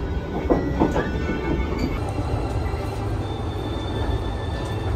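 Train running along the rails with a steady low rumble, with background music laid over it.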